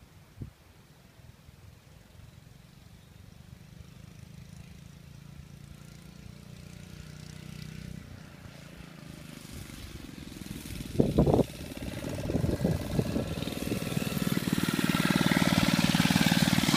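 A 1970s Rupp minibike's 4-horsepower Tecumseh engine running, growing steadily louder as it comes closer. There is a brief loud burst of noise about eleven seconds in.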